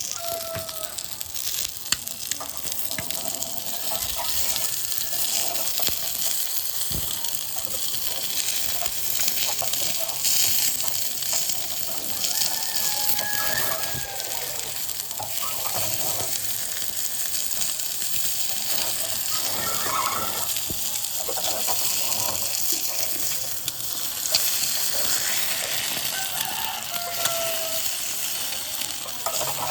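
Duck eggs sizzling steadily as they fry on a hot pan for an egg poach.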